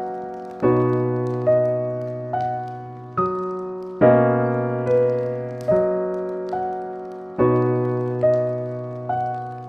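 Slow, gentle piano music: a note or chord struck about once a second, each ringing out and fading before the next.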